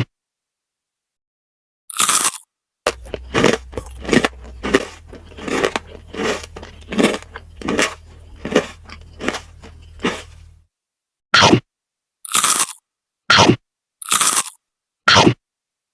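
Crunchy food bitten and chewed close to the microphone. A bite comes about two seconds in, then a run of crunching chews with a low hum beneath, then five separate crunches with silence between them near the end.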